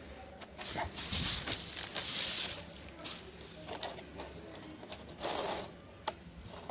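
Crunching and crinkling noises with scattered sharp clicks, loudest for about a second and a half starting a second in and again briefly about five seconds in, while kittens are being fed.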